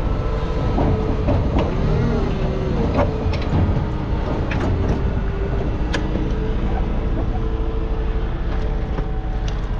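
Engine running steadily with a low rumble, its pitch wavering, and scattered sharp clicks and knocks over it.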